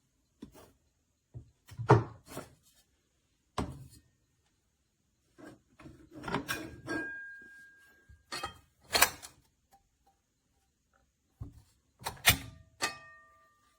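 Nonstick pots and pans being handled and stacked: a series of irregular knocks and clanks, a few of them ringing briefly like struck metal.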